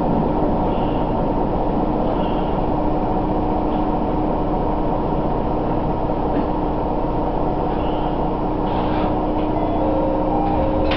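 Diesel railcar running along the line, heard from inside the car: a steady rumble of engine and wheels on rail, with a constant hum.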